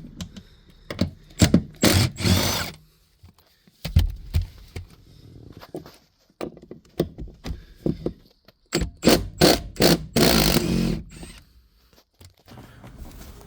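Irregular knocks and clicks of hand tools and metal hardware while the front seat bolts of a 1996 Honda Civic coupe are undone, with two longer scraping noises about two seconds in and again around ten seconds.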